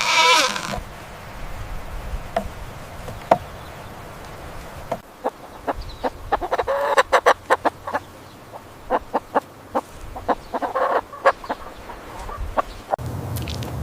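Domestic chickens clucking in short calls, with a call right at the start, a busier stretch about seven seconds in and another call near eleven seconds, and sharp taps and clicks in between.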